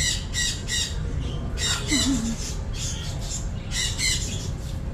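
Parrot squawking: a series of short, harsh calls, about three in the first second, then more around two seconds and again around four seconds in.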